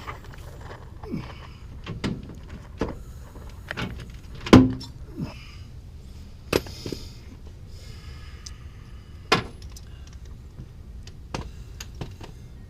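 Scattered metal knocks and clinks of hand tools and suspension parts being handled, about eight separate sharp strikes, the loudest about four and a half seconds in, over a steady low hum.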